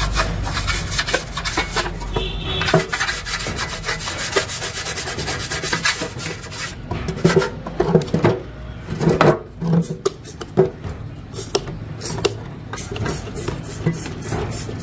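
Rapid abrasive rubbing strokes, like sanding or scrubbing on a hard surface, for about the first six seconds, giving way to scattered knocks and clicks.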